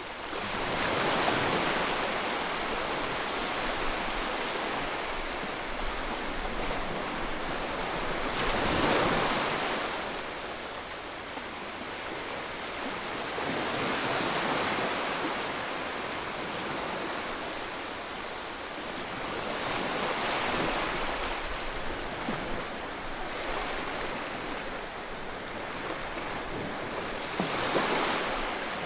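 Sea waves breaking and washing on the shore, a steady hiss of surf rising in a swell every five or six seconds.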